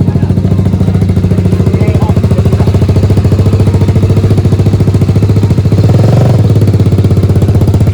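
Single-cylinder motorcycle engine running loud and steady under way, picking up briefly about six seconds in. The exhaust is very loud, 'extreme', running without its dB killer.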